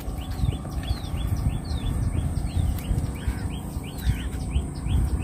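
Birds chirping: short, high calls repeated evenly about three times a second, over a steady low rumble.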